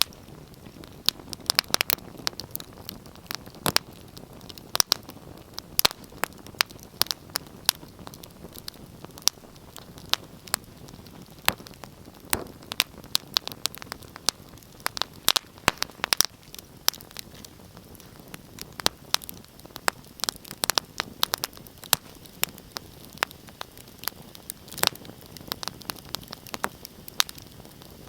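Wood fire burning in a fireplace: irregular sharp crackles and pops, several a second, over a steady low hiss of the flames.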